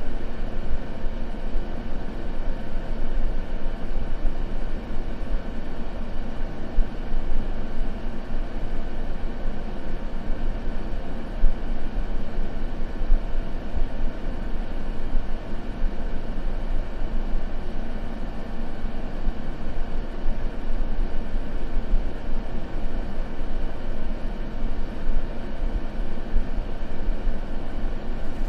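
Steady, unbroken white noise for sleep masking, heaviest in the low end with a deep rumble and thinning out toward the top, with no changes or pauses.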